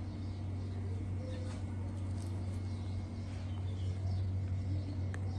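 Small birds chirping faintly and intermittently over a steady low hum.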